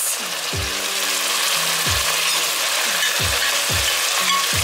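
Beef, onion and garlic frying in a pot, a steady sizzle, under background music with a low bass line and a regular thump.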